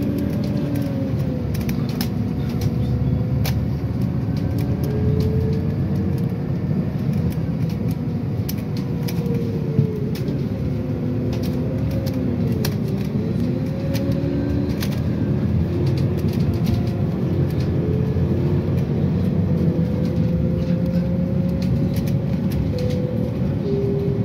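City bus driving in service, heard from inside the passenger cabin: a steady low engine rumble with a drivetrain whine that rises and falls in pitch as the bus speeds up and slows, and scattered light rattles and clicks.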